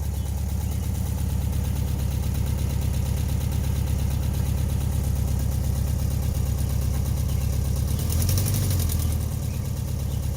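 1968 VW Bus's air-cooled flat-four engine running steadily, back to life after years of storage. Its note rises briefly about eight seconds in.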